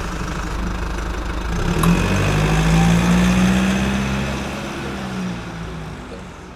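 A vehicle engine running, revving up about two seconds in, then slowly dying away near the end.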